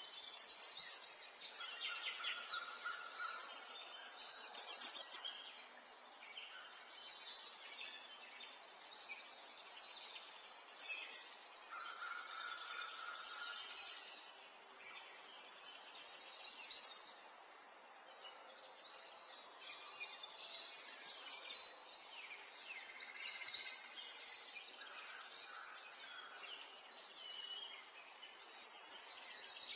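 Songbirds singing outdoors: repeated bursts of rapid, high chirping phrases every couple of seconds, over a faint, steady background hiss.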